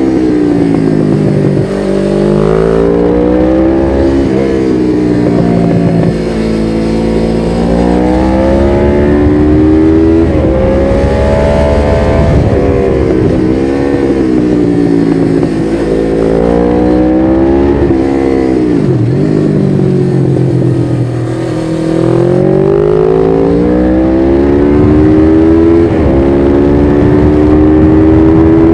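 1993 Suzuki GS500E's air-cooled parallel-twin engine through a Takkoni slip-on exhaust with dB-killer, revs climbing and dropping again and again as the bike accelerates and rolls off through bends. Two quick sharp dips in revs come about two-thirds of the way through.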